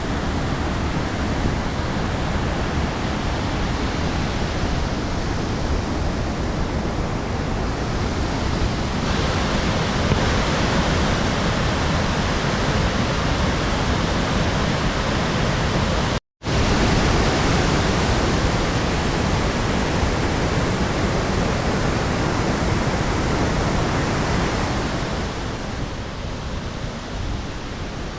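Lodh Falls, a very tall waterfall in full monsoon flow, giving a loud steady rushing roar of falling water. It cuts out completely for a split second about halfway through and eases slightly near the end.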